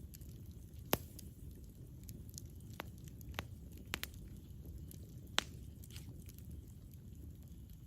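Campfire burning: a low steady rumble of flames with sharp, irregular crackles and pops from the burning wood, the loudest pops about a second in and again about five and a half seconds in.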